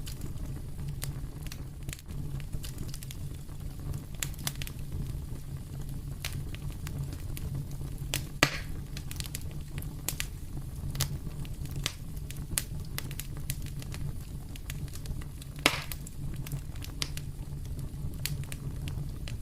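Wood fire crackling in a fireplace: a steady stream of small snaps and ticks over a low, even rumble, with two louder pops, one a little before the middle and one near the end.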